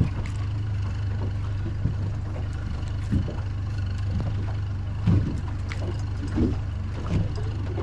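Small boat's motor idling with a steady low hum, and a few irregular low knocks and slaps against the hull.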